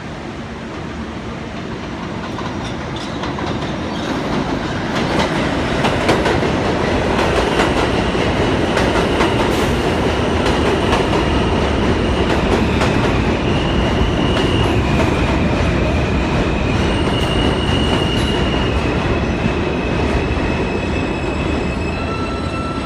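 NYC subway train pulling into the station, its wheels clattering over the rail joints and growing louder from about two seconds in. From about seven seconds in, a steady high squeal from the wheels or brakes shifts between a few pitches as the train slows.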